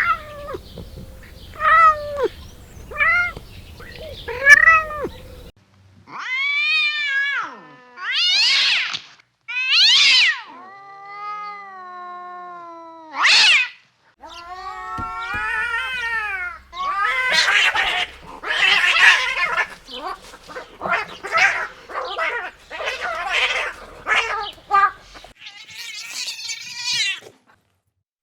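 A string of separate domestic cat meows: short mews about once a second, then longer drawn-out meows and a low, wavering yowl, then a run of rougher, noisier calls near the end.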